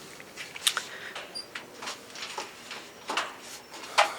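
Pigeons stirring in a loft: scattered light clicks and scuffs, with one short high peep about a second and a half in.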